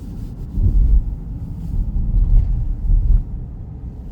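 Low road rumble from a moving car, rising and falling in uneven swells, with wind buffeting the microphone.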